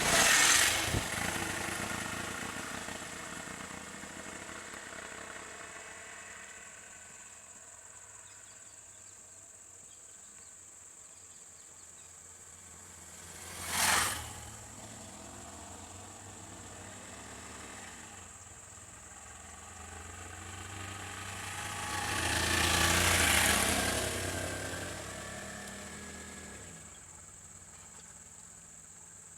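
Vehicles passing by on a road. One fades away over the first few seconds, a brief sharp one goes by about halfway through, and a longer one swells and fades near the end. Under them runs a steady high drone of insects.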